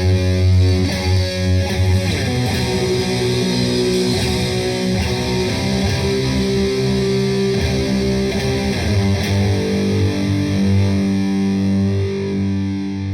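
Raw grindcore recording: heavily distorted electric guitar holding sustained riff notes over a dense wash of high noise.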